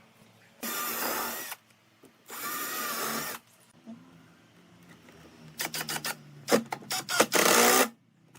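Power drill run in two bursts of about a second each, its pitch wavering, then several quick trigger taps and one more short run near the end.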